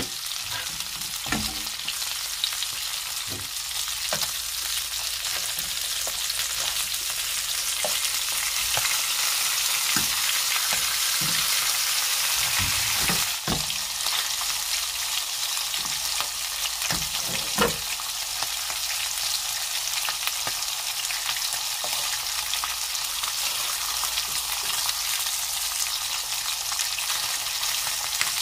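Abalone and sliced garlic frying in butter in a nonstick pan: a steady sizzling hiss, broken by a few scattered clicks and taps of the spatula and tongs as the pieces are turned.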